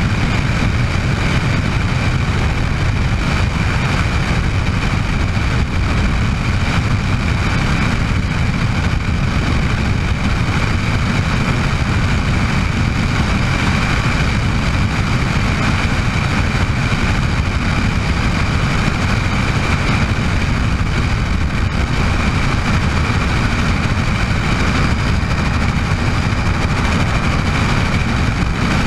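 Bell 206 JetRanger helicopter running steadily: a dense low rotor rumble under a steady high whine from its Allison 250 turboshaft engine.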